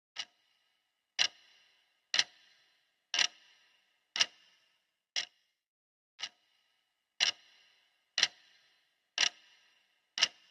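Clock ticking, one sharp tick a second, some ticks louder with a brief ringing tail.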